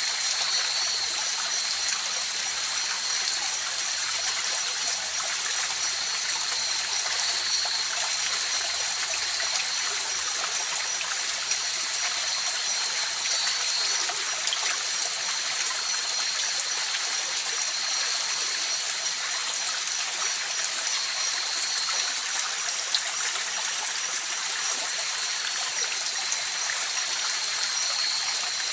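A river or mountain stream rushing and trickling in a steady, even hiss. Two thin, steady high tones run over the water throughout.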